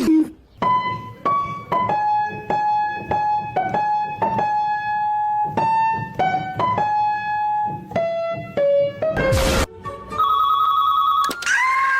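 A simple melody played one note at a time on an electric piano or keyboard-like tone, roughly two notes a second. It is followed by a short noisy burst, a fast trilling ring-like tone, and then a held tone that slides up slightly near the end.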